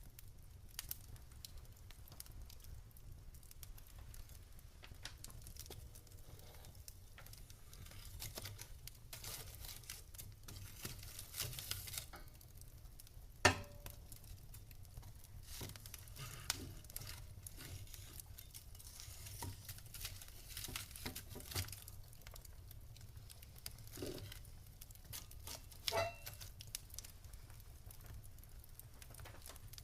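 Wood fire in a fireplace crackling with scattered small pops and a soft hiss, over a faint low rumble. One sharp, loud pop comes about halfway through, and another smaller burst of pops near the end.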